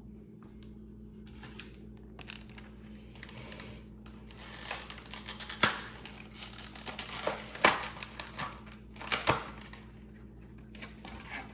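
Cleaning and handling noises on a pistol slide's rear-sight dovetail: a cloth rubbing and crinkling in bursts, with a few sharp clicks of metal being handled.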